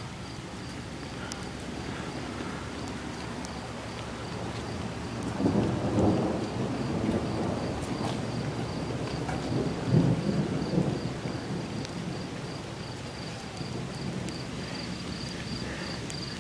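Rolling thunder rumbling over steady rain, building about five seconds in and swelling twice before fading back. A faint steady high insect chirping runs underneath.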